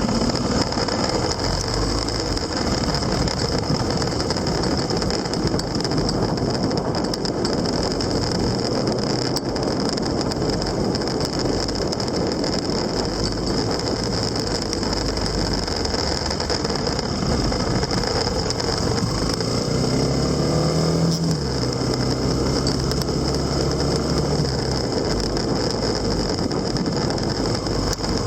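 Steady road noise of a vehicle on the move: engine and wind. About twenty seconds in, an engine hum rises and holds for a few seconds, then drops away.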